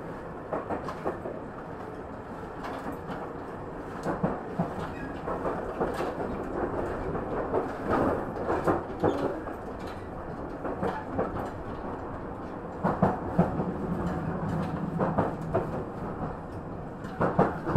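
Running sound of a Tobu 50050-series electric train heard from on board: a steady rumble of wheels on rails, with repeated sharp clicks over rail joints. A steady low tone joins in for a few seconds later on.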